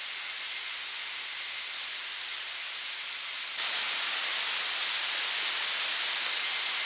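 Waterfall rushing in a steady, noisy hiss of falling water. It gets suddenly louder about three and a half seconds in.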